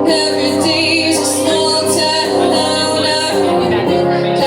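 A band playing a song live, with a sung vocal over sustained, full instrumental chords.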